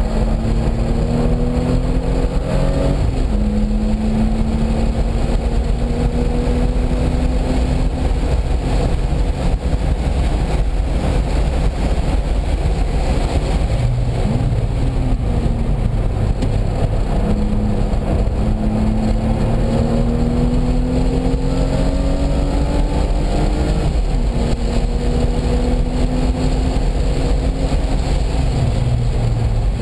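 Car engine under hard acceleration on a race circuit, its note climbing slowly and falling back sharply at each gear change a few times, over heavy road and wind noise.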